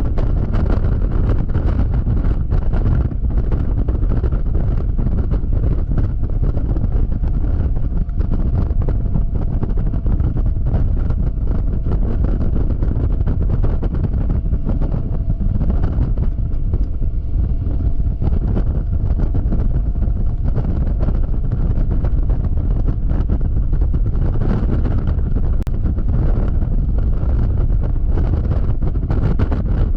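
Steady, loud wind rush buffeting the camera microphone on a Yamaha XMAX scooter riding at freeway speed, with the scooter's running drowned beneath it. A faint steady whine rises in the middle and fades again.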